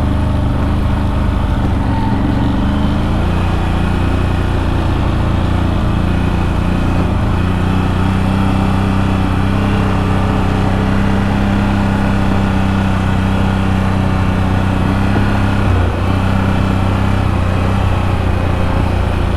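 CFMoto CFORCE 1000 Overland ATV's V-twin engine running steadily under way on a rough trail, with slight changes in engine speed.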